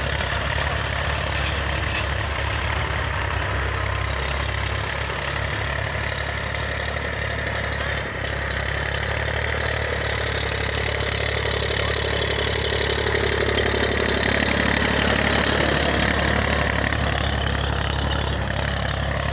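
Escorts 355 tractor's diesel engine idling steadily, a little louder for a few seconds about two-thirds of the way in.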